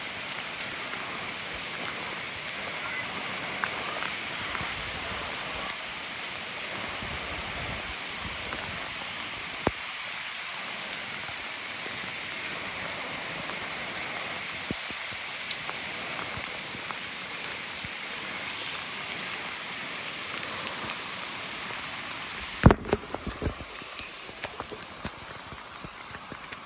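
Steady rain falling: an even hiss with scattered sharp ticks of drops. Near the end the sound cuts off abruptly to quieter surroundings, with a few loud knocks.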